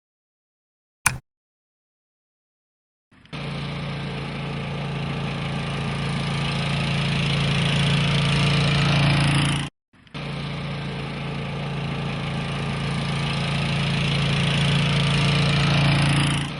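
A small engine running steadily, slowly getting louder, in two long stretches separated by an abrupt cut of about half a second, after a single click about a second in.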